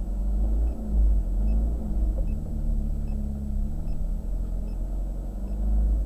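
Ferrari F430 Spider's V8 engine running at low revs under light throttle while the car is driven slowly, its pitch rising and falling gently over a heavy low rumble. Heard from inside the open-top cabin.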